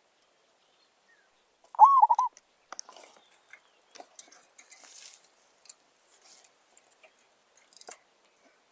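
Zebra dove (merbok) giving one short, wavering coo about two seconds in, followed by scattered faint clicks and rustles.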